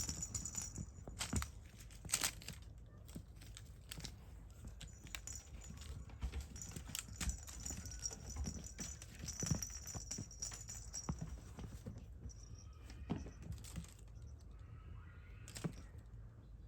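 Kittens playing: a scatter of light taps, scratches and rustles as they scramble and tumble about.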